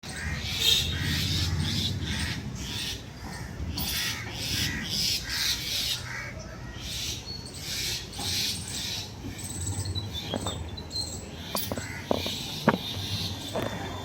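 Two mynas giving harsh, rapid scolding calls, mobbing a cat near their nest. The calls come thick and fast for the first several seconds, then grow sparser.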